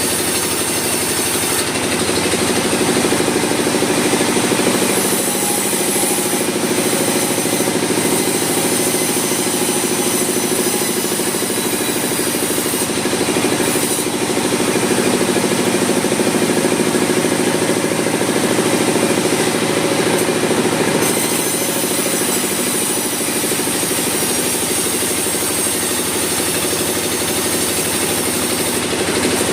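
Sawmill machinery running steadily: a constant motor hum under a loud, even noise, with the high hiss easing off and coming back a few times.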